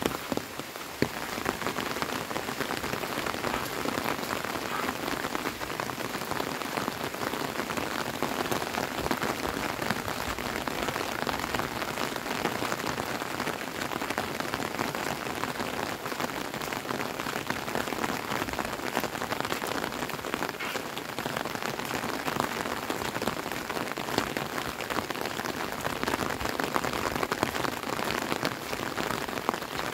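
Steady rain falling on grass, fields and a wet dirt track: an even hiss made of many individual drop hits, unchanging throughout.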